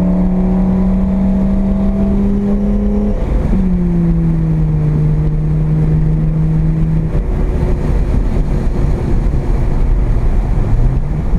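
Mazda RX7's carbureted 12A rotary engine heard from inside the cabin, pulling with slowly rising pitch, dipping briefly about three seconds in, then easing down in pitch for several seconds before picking up again near the end. Steady road and tyre noise runs underneath.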